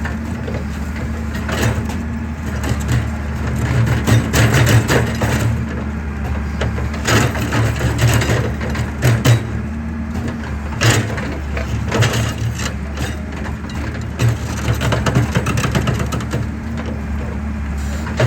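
Excavator's diesel engine running steadily while concrete is crushed, with irregular sharp cracks and crunches over the engine drone.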